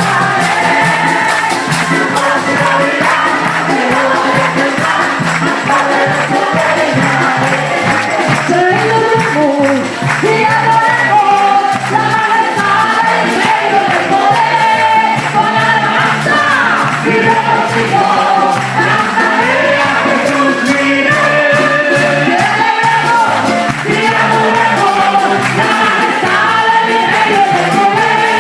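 A group of voices singing a song together, with a steady percussive beat.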